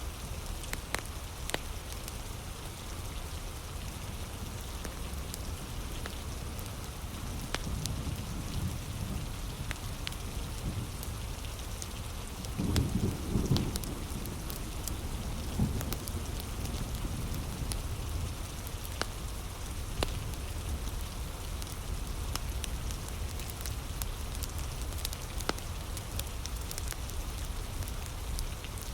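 Steady heavy rain with scattered sharp pops and crackles from a wood fire. Low thunder rumbles about eight seconds in, and louder around thirteen seconds.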